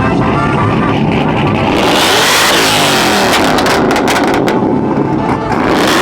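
Vehicle engine revving hard and loud: a long surge of rising and falling pitch from about two seconds in, a brief drop, then another surge starting near the end.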